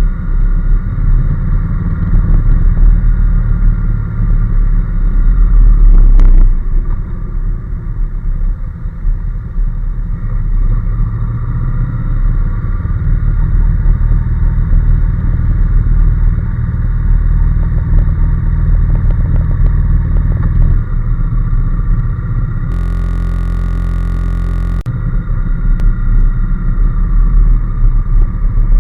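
Honda NC750S's 745 cc parallel-twin engine running while riding, under a heavy low rumble of wind on the microphone. The pitch shifts with throttle and speed. A single sharp click comes about six seconds in.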